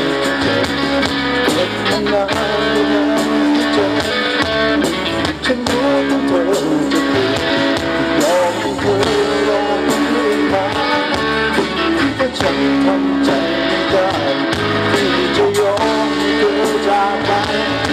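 Live band music with electric guitar playing an instrumental passage between sung verses of a Thai pop song.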